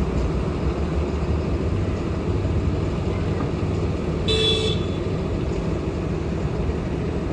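Road traffic rumbling steadily, with one short vehicle horn toot about four seconds in.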